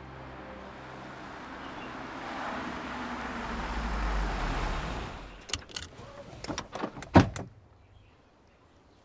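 A rush of noise swells and cuts off suddenly, then comes a quick run of clicks and knocks, the loudest a sharp knock about seven seconds in, the sounds of a car and its door being handled.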